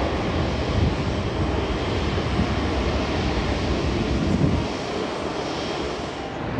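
Jet airliner engine noise, a heavy steady rumble that eases off about five seconds in.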